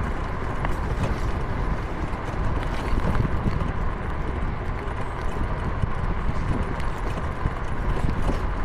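Wind and road noise from riding along a road: a steady low rumble and rushing, with a faint steady whine and light scattered rattling clicks.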